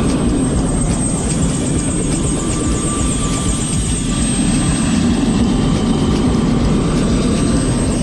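Helicopter running steadily, heard from inside the cabin: a loud, even rumbling noise with a thin high-pitched whine over it.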